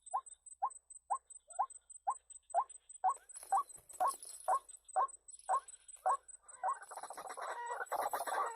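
White-breasted waterhen calling: a steady series of short, evenly spaced notes, about two a second. About seven seconds in they give way to a dense, overlapping chorus of calls.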